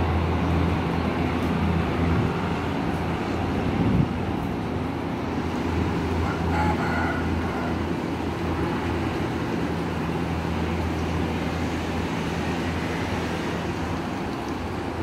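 Diesel railcar's engine droning steadily as the train pulls away, slowly fading, with a single sharp knock about four seconds in.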